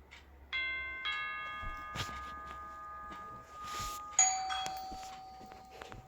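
Chime sounding: two ringing tones about half a second apart, then a louder, lower chime a little after four seconds in that fades away. A short hiss comes just before the last chime.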